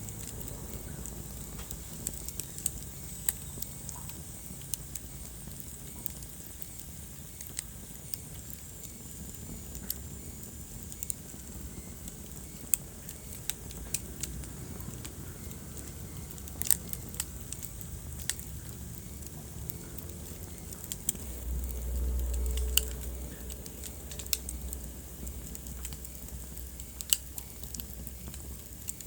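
Wood fire burning in a fireplace, crackling with irregular sharp pops over a steady low rumble of flames. The low rumble swells briefly about two-thirds of the way through.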